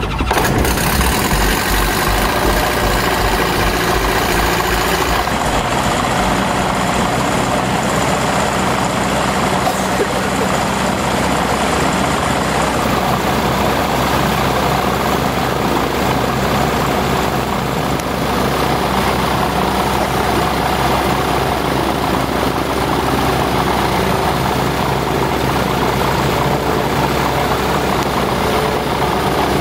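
RV-12 light sport aircraft's Rotax 912 engine running steadily at low power on the ground. A low pulsing is heard for the first several seconds, then it evens out.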